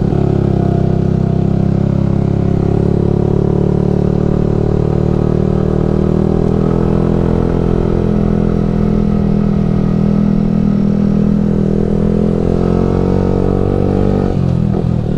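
Yamaha R15 V3's 155 cc single-cylinder engine running at a steady cruise through a Ronin Musashi aftermarket exhaust. Its note dips briefly and shifts near the end.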